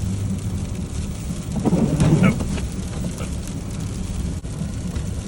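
Steady engine and tyre rumble inside the cab of a four-wheel-drive Chevy pickup driving on an ice-glazed road, with a louder rough rumble about two seconds in.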